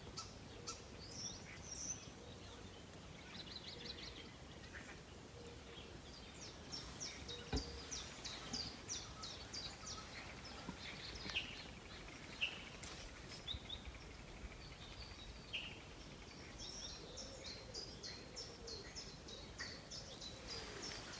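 Songbirds singing: runs of quick, high chirps and trills, over a faint steady background hiss. A single sharp click comes about seven seconds in.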